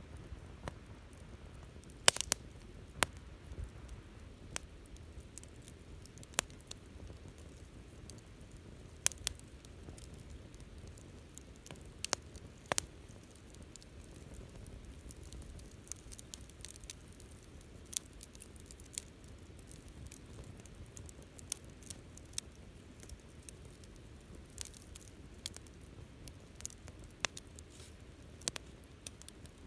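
Wood campfire crackling: irregular sharp pops and snaps over a low steady rustle of burning, with the loudest snaps clustered a couple of seconds in.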